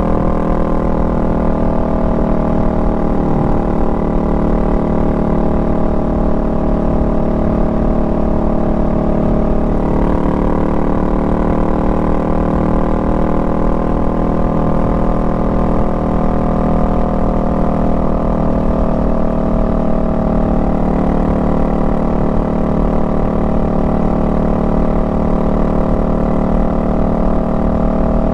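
Honda Rebel 500's parallel-twin engine running under way at a steady cruise. Its pitch shifts a little about ten seconds in and then drifts gently up and down with small changes in throttle.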